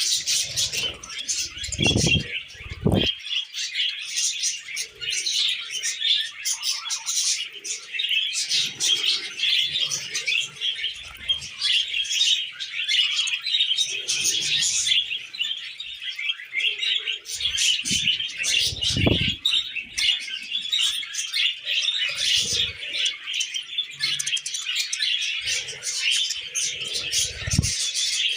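Budgerigars chattering and warbling without a break, a dense run of quick chirps. A few short low thumps come through: about two seconds in, near the middle and near the end.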